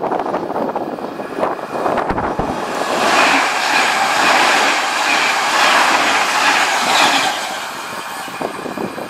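Electric multiple-unit passenger train passing close at speed: a rushing wheel-on-rail noise that swells about three seconds in and falls away near the end.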